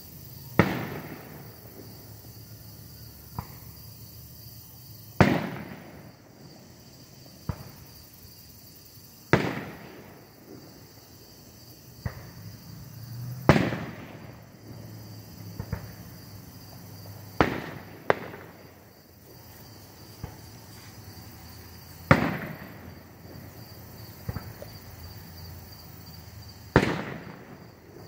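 Aerial firework shells bursting overhead: about seven loud booms, roughly four seconds apart, each trailing off in a rolling echo, with smaller pops between them.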